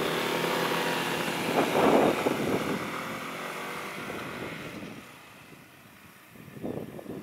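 Diesel engine of a sugar-railway train passing, a steady pitched drone loudest about two seconds in, then fading away.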